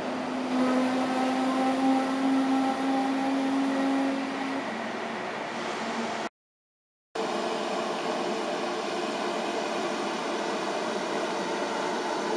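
Trains standing at a station platform: a steady hum with a held tone for the first few seconds, then, after a sudden break to silence about six seconds in, a steady whirring hum from a waiting Intercity train.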